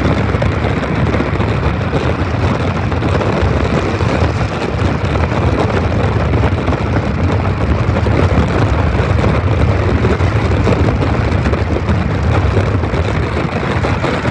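Diesel locomotives of a freight train idling: a steady, even engine sound with a strong low hum, unchanging throughout.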